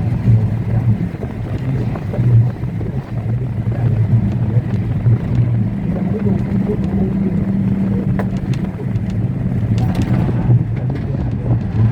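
Engine of a moving road vehicle running with a steady low drone.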